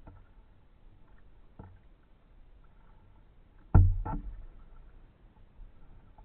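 Kayak paddle knocking against the kayak's hull: a loud double knock about two thirds of the way in, with a couple of light taps earlier.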